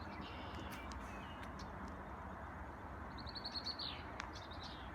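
A bird's quick trill of about eight short high notes about three seconds in, ending in a short falling note, over steady outdoor background noise.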